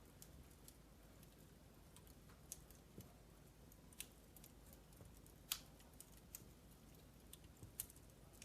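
Burning logs in a wood fireplace crackling faintly: scattered sharp pops at irregular intervals, the loudest about five and a half seconds in, over a faint low hum.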